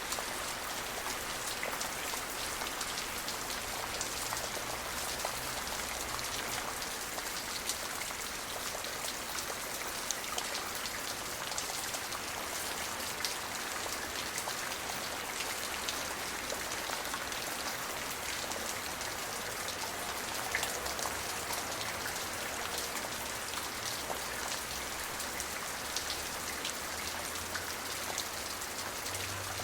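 Steady rain falling, with individual drops landing close by as sharp ticks over a constant hiss.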